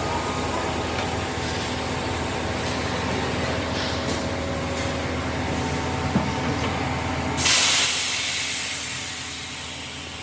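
Tyre-factory machinery running with a steady hum, then about seven and a half seconds in a sudden loud hiss, like a machine venting, that fades away over about two seconds.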